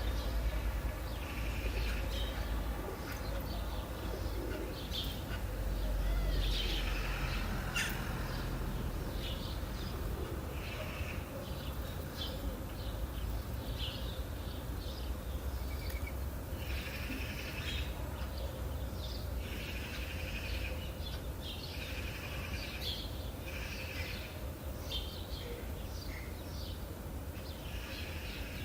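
Birds chirping and calling in many short, overlapping phrases, some a little buzzy, over a steady low rumble.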